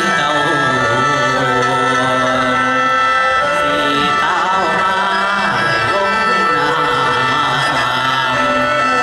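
Isan folk music from a pong lang band playing lam khaen: held drone-like tones with drums and a singer's voice bending in pitch over them.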